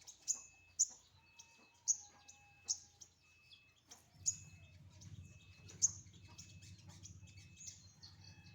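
A songbird (sogon) giving short, sharp high chirps, repeated roughly every half second to second, with a thin steady piping note recurring underneath. A low hum comes in about halfway through.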